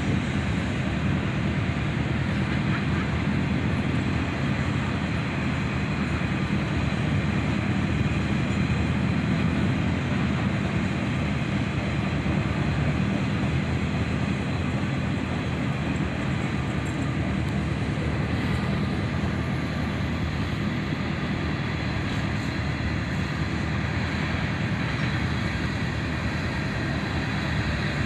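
Freight cars of a long mixed manifest train rolling past, their steel wheels making a steady, even rumble on the rails.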